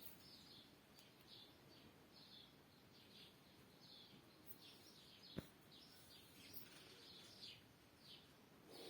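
Faint, high bird chirps repeating steadily, about one to two a second, with a single soft click a little past halfway.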